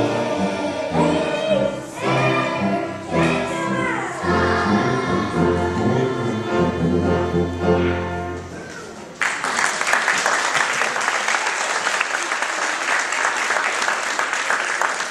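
A group of young children singing a song together, ending on a held note; about nine seconds in, the audience breaks into steady applause.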